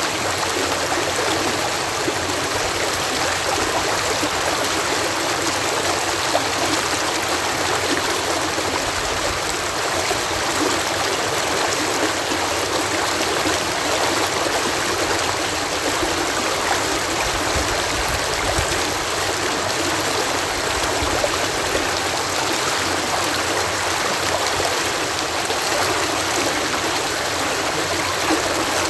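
Water pouring steadily through a canal lock, a continuous even rush of falling water.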